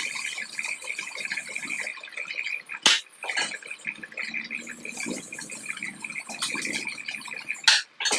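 MIG welding arc crackling steadily, with two sharp loud bursts, one about three seconds in and one near the end.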